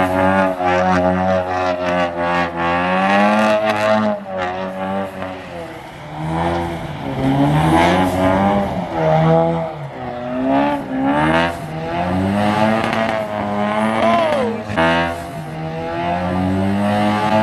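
Car engines revving and accelerating, their pitch rising in glides a few times, with music mixed in.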